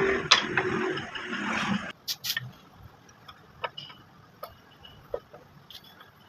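Wood and tools being handled: a knock and about two seconds of scraping, then two sharp clicks and scattered light taps.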